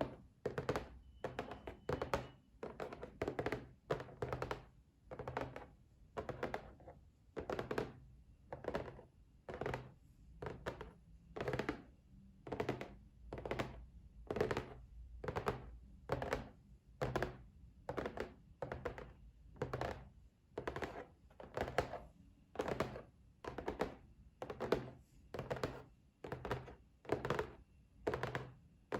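Fingers tapping on a box in quick flurries of dull taps, one flurry about every second, in a steady rhythm.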